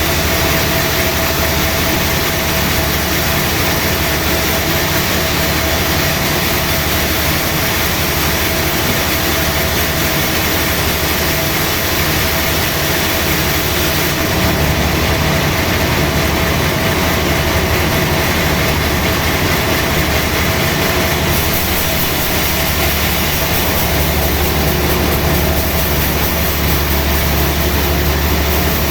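Sawmill machinery running steadily, a loud even drone with a constant mid-pitched tone over a low rumble.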